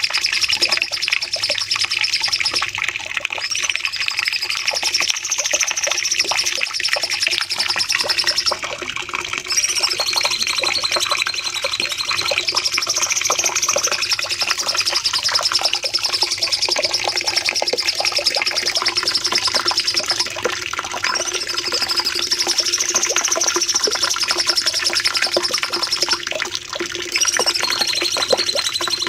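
Cucak cungkok songbird singing a long, unbroken rapid high trill ('nembak panjang'), its phrases swelling up and dipping in pitch every few seconds.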